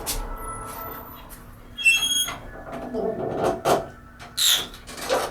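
A short electronic chime about two seconds in, from a Schindler hydraulic elevator, followed by several knocks and brief rushing noises from the car and its doors.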